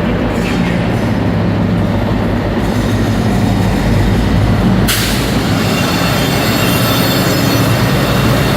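A train running at the station platform with a steady low engine hum. About five seconds in, a loud high-pitched screeching hiss sets in and carries on.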